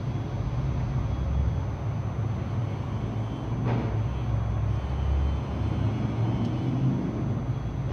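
Steady low vehicle rumble, with a single knock about four seconds in.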